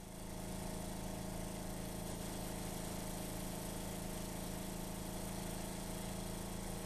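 Wilesco D-20 toy live steam engine running steadily, driving an M66 model generator: a constant hum with evenly spaced tones over a steady hiss.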